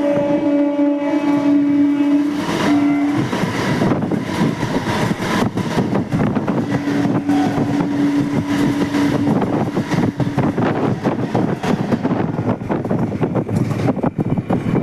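An Indian Railways train's horn sounds and cuts off about three seconds in. The rumble and rapid clatter of its wheels over the rail joints follow, with a fainter horn note in the middle.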